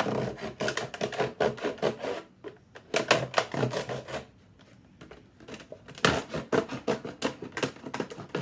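Knife cutting through the side of a plastic gallon milk jug: rapid crackling and scraping in bursts, with a pause from about four to six seconds in before the cutting resumes.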